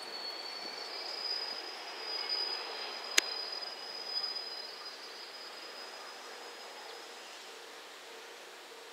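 JR Shikoku 1500-type diesel railcar pulling out and fading away, with a steady high-pitched squeal that dies out about two-thirds of the way through. A single sharp click comes about three seconds in.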